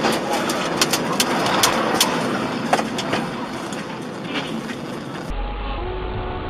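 Vehicle noise from a car dashcam, with several sharp knocks or clicks in the first three seconds. About five seconds in, it cuts to a duller recording with a low hum.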